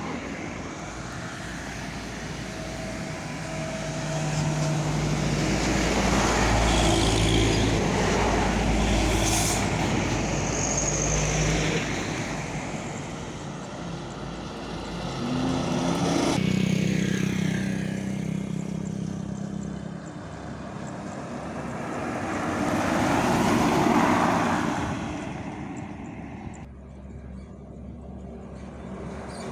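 Heavy trucks passing at speed on a road, three times in turn: each pass swells in engine hum and tyre noise, then fades.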